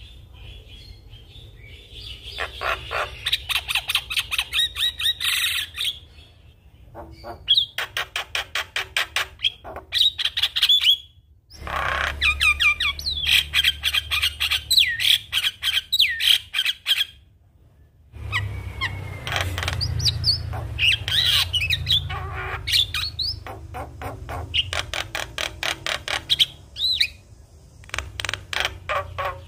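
Javan myna (jalak kebo) chattering in fast runs of harsh, clicking notes, about eight to ten a second, mixed with short whistled glides. The runs last several seconds each and are broken by brief pauses.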